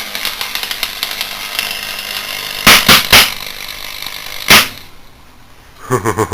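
Flood-damaged CRT television circuit board shorting across mains power, wet with conductive cleaner: a continuous crackling arc, with three loud bangs close together about three seconds in and another at four and a half seconds. The crackling cuts off suddenly just after, as the main breaker trips.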